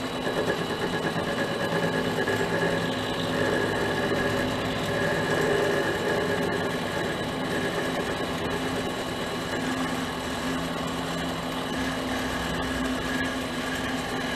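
Mini lathe running at about 500–600 RPM with a steady motor hum and whine, a parting tool cutting off a slice of brass hex stock. The cut is a little louder and rougher for the first half.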